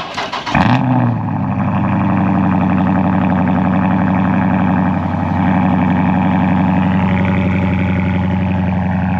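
Car engine cranked on the starter and catching less than a second in, with a brief flare of revs, then settling into a steady idle.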